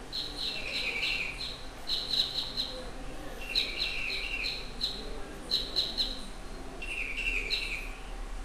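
Small birds chirping: a high chirping phrase repeated every second or two, some phrases ending in a lower trill, over a steady low hum.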